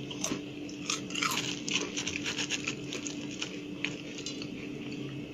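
A person biting and chewing crisp deep-fried chebureki, the pastry crust crunching in scattered, irregular soft crackles.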